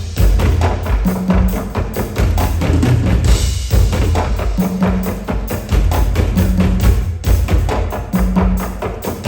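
Live percussion show music: a driving beat of drums and struck wood-block-like percussion over a low bass note that keeps returning, with a short burst of hiss about three seconds in.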